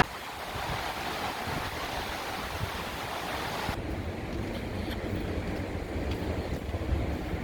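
Wind blowing across an exposed hilltop, a steady rushing noise. About four seconds in, the hiss suddenly loses its upper part and becomes duller.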